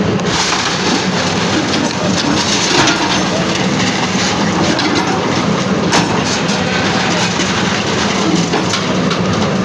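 Demolition noise: a steady, loud din of structures being broken and debris crushing and cracking, with a couple of sharper knocks.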